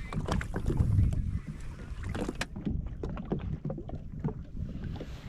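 Wind rumbling on the microphone and water against a jet ski's hull, heavier in the first half, with scattered short clicks and knocks.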